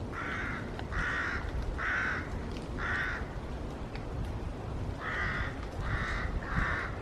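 A bird calling with short, harsh calls: four about a second apart, then a pause of about two seconds and three more near the end, over a steady low background rumble.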